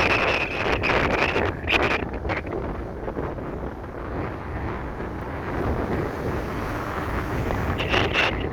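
Strong wind blowing in gusts and buffeting the microphone with a low rumble. A thin high whistle sounds over it in the first two seconds and again near the end.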